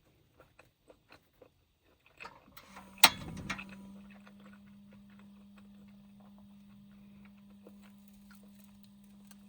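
A few light clicks and handling knocks, then a sharp click about three seconds in followed by a steady low hum, like a small electric appliance being switched on and left running.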